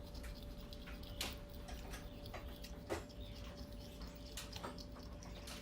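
Razor blade scraping chalky residue off a glass T-top panel: a few short, irregular scratchy clicks over a faint steady hum.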